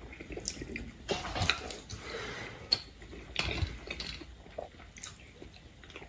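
Close-up eating sounds: wet chewing and smacking of a mouthful of soft braised beef tendon, in irregular clicks and short squelches. Near the end a spoon dips into a small bowl of chili sauce.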